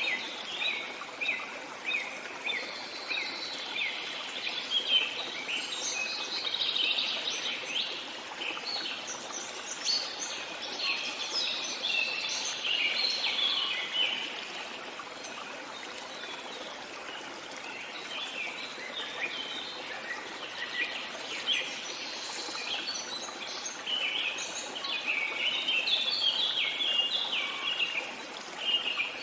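Many small birds chirping and singing in a busy chorus over a steady running stream; the chirping thins out for a few seconds midway, then picks up again.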